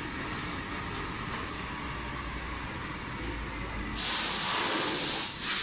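Steady machinery hum, then a loud hiss starts suddenly about four seconds in and lasts over a second.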